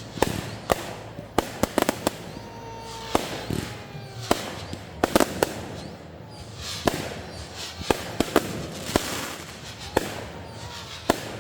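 Fireworks going off in quick succession: many sharp bangs and pops, with a thin falling whistle about two seconds in and a hissing crackle around nine seconds in.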